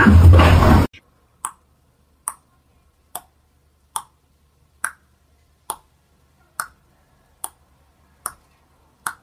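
Loud music cuts off about a second in. It is followed by a steady run of sharp, identical ticks, a little more than one a second, with silence between them.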